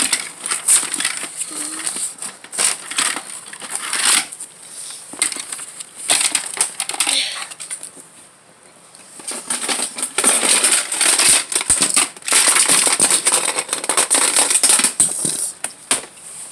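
Plastic playset pieces being handled and fitted together: a busy run of clicking, clattering and rustling, with a short lull about eight seconds in.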